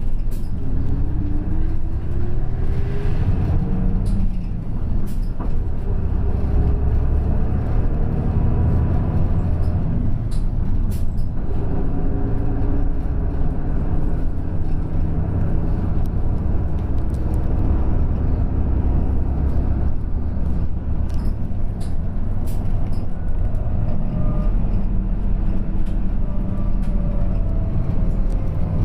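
Route bus running on the road, heard from inside the cabin: a steady low engine rumble with a whine that rises in pitch over the first few seconds as the bus picks up speed and falls again near the end, with scattered light rattles and clicks.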